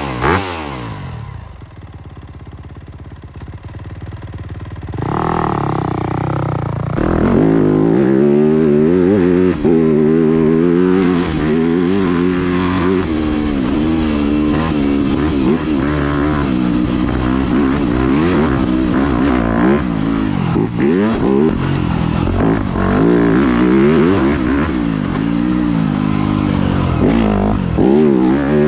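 Dirt bike engine revving up and down as the bike is ridden, its pitch rising and falling with the throttle. It is quieter for a few seconds near the start, then runs loud and continuously from about seven seconds in.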